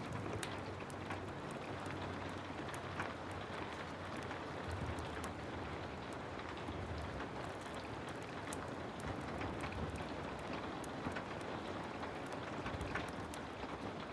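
Heavy rain falling steadily, mixed with frequent small, sharp crackles of a wood fire burning in a fireplace, and a low rumble that swells now and then.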